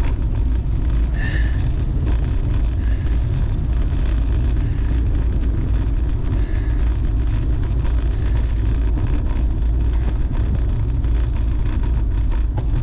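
Wind buffeting the microphone while riding a bicycle: a steady, loud low rumble.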